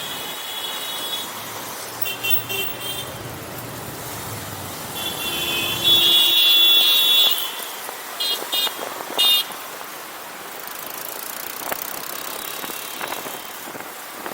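Busy street traffic heard from a moving motorcycle: steady road and wind noise, with vehicle horns honking. There are a few short toots, one long horn blast, the loudest sound, starting about five seconds in, then a quick run of short beeps around eight to nine seconds.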